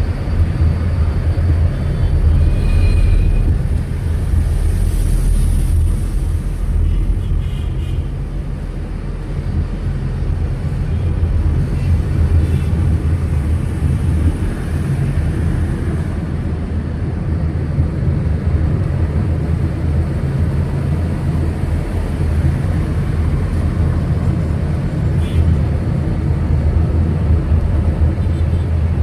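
A moving car's engine and tyre noise: a steady low rumble.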